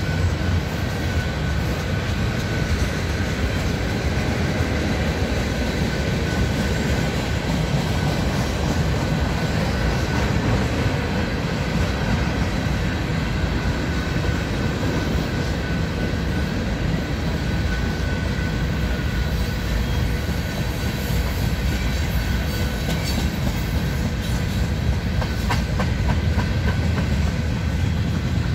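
Freight cars of a long mixed train, tank cars and boxcars, rolling past: a steady rumble of steel wheels on rail, with a faint steady ringing tone and a few sharper clicks late on.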